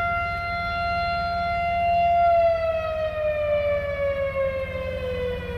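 A siren holding one steady pitch, then winding down, its pitch sliding lower from about two seconds in, over the low rumble of an engine.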